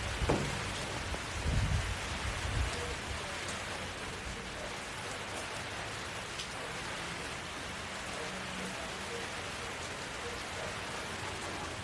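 Steady rain falling in an even hiss, with a few brief low thuds in the first three seconds.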